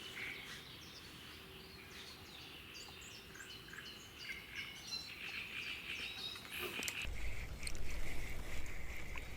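Several birds singing, with many short chirps and trills overlapping. From about seven seconds in, wind buffets the microphone with a low rumble.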